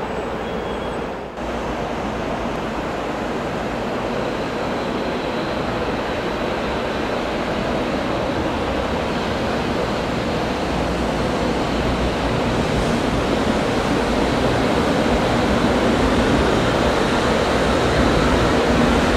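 Shinkansen 100 series train rolling slowly along the platform, a steady rumble of wheels and running gear that grows gradually louder.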